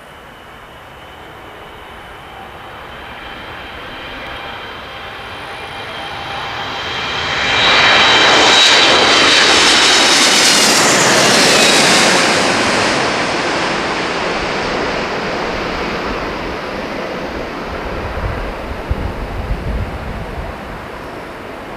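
Boeing 777-300 airliner's twin jet engines on landing approach: a high whining tone over jet noise that grows louder, is loudest about eight to twelve seconds in as the plane passes, then fades away. A low rumble with uneven bumps comes in near the end.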